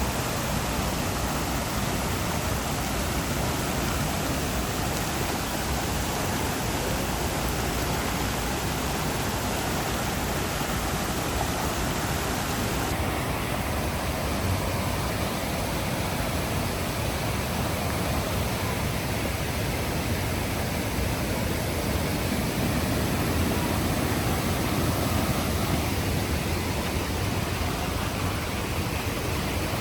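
Heavy rain pouring down in a steady, even hiss, its tone shifting abruptly about thirteen seconds in.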